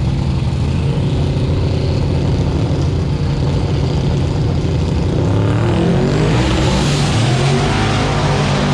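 Vehicle engine running steadily, then revving up with rising pitch about five seconds in.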